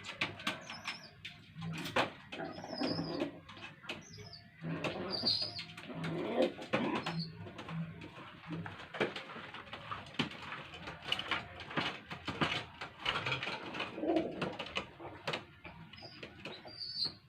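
Domestic pigeons at the nest while an adult feeds its squabs: low cooing, thin high squeaks from the begging squabs, and scattered rustling, clicks and wing flutters.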